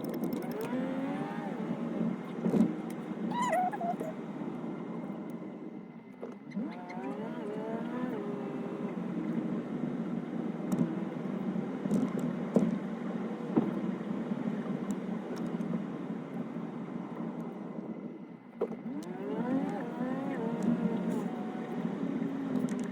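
A car driving: steady engine and road noise, with the engine's pitch rising and falling a few times as it speeds up and slows.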